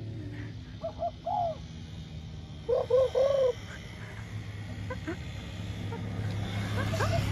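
A bird calling in short, arched cooing notes: a pair about a second in, three in quick succession around three seconds, and one more near the end, over a steady low hum.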